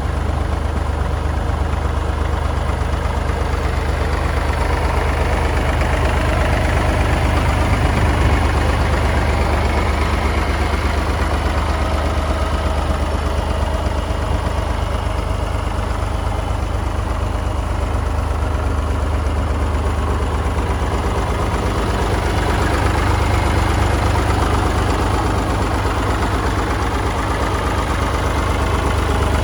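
Massey Ferguson 203 industrial tractor's three-cylinder Perkins diesel engine idling steadily with an even low chug.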